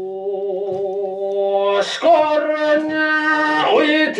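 A man's voice chanting in long, drawn-out held notes in kagura singing style, the pitch stepping up about halfway through.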